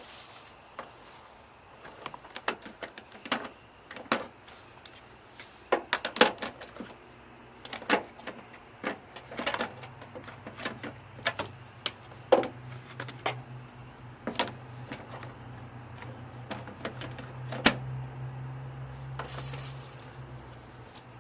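Irregular clicks and knocks of plastic interior trim panels being handled and fitted into place in a car's footwell. A low steady hum comes in about halfway through.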